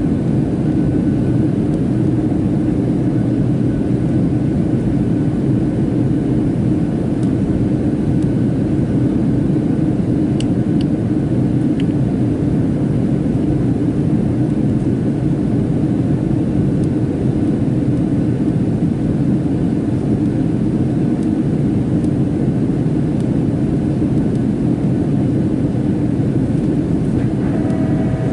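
Steady cabin noise of a Boeing 737-700 in flight, heard from a seat by the wing: a constant low rumble of its CFM56-7B jet engines and the rush of air past the fuselage. A steadier, higher hum joins it just before the end.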